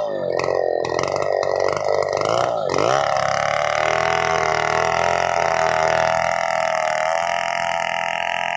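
Two-stroke chainsaw engine running at high revs. Its pitch dips sharply about three seconds in and picks back up, then holds steady with a slight waver.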